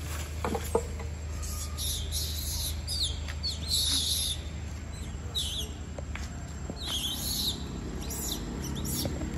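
Birds calling: short high chirps and falling whistles repeated every second or so, over a low steady hum.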